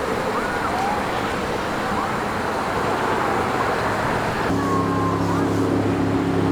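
Outdoor ambience of steady hiss with short high chirps. About four and a half seconds in, a steady low engine hum comes in.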